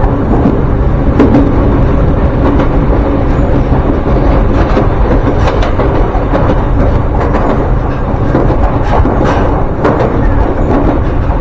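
Ryutetsu Nagareyama Line electric train running, heard from on board: a steady rumble of wheels and running gear, with scattered sharp clacks as the wheels pass over rail joints.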